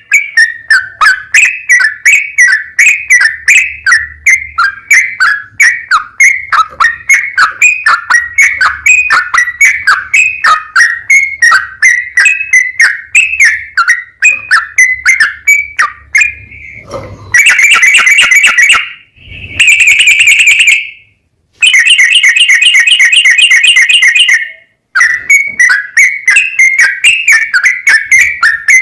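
Yellow-vented bulbul (trucukan) in long, rapid-fire song: loud whistled notes, several a second, sliding around one pitch. Partway through it breaks into a few hard-cut stretches of denser, buzzier chattering separated by brief silences before the song resumes.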